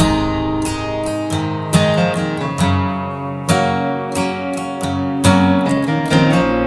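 Instrumental country-style music on acoustic guitar, strummed and picked with a steady rhythm.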